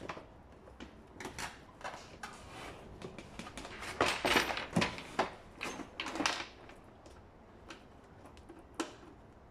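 Hand work on a scooter being dismantled: scattered clicks, knocks and scraping of parts being handled, with louder scrapes about four and six seconds in and a sharp click near the end.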